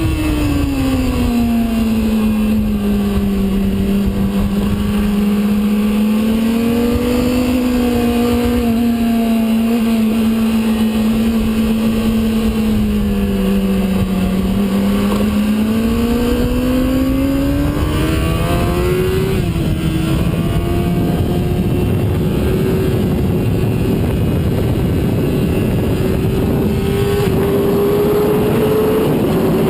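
Sport bike engine on a track. The revs fall as it slows at the start, hover and dip through a long stretch, then climb again about halfway through with a gear change. It then holds at steady high revs under heavy wind rush.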